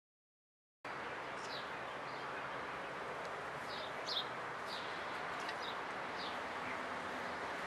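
Silence for about the first second, then small birds chirping in short, high, falling notes every second or so over a steady outdoor background hiss.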